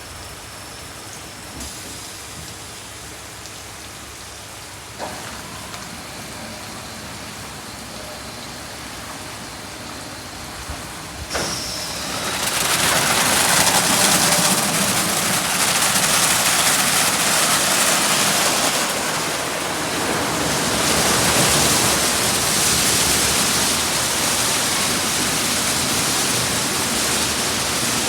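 Ryko SoftGloss XS 2 automatic car wash: a low background hum with a few knocks, then about twelve seconds in a loud steady hiss of water spray hitting the car starts and carries on, swelling and easing.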